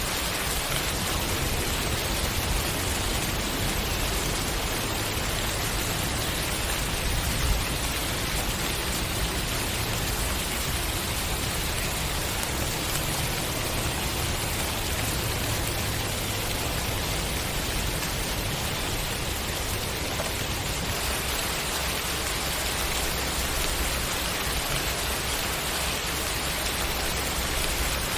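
Steady rain falling. The noise holds even throughout, with a low rumble underneath and one slightly louder spot about seven seconds in.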